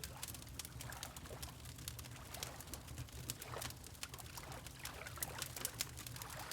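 Fireplace fire crackling with frequent sharp pops over a steady low rumble, mixed with water lapping in soft swells.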